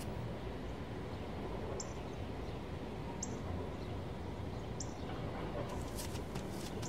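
Three short, high bird chirps about a second and a half apart over a steady low background hum.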